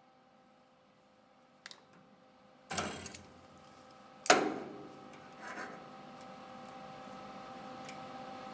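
Workshop handling sounds: a small click, then two sharp knocks about a second and a half apart, over a faint steady hum.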